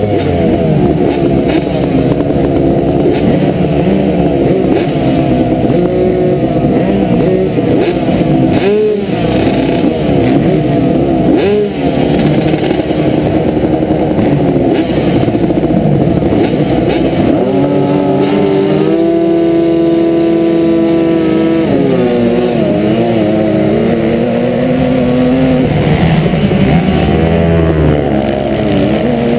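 Motocross motorcycle engines running hard, their pitch rising and falling as the bikes rev and shift, with several engines overlapping. For a few seconds past the middle one engine holds a steady pitch before the revving resumes.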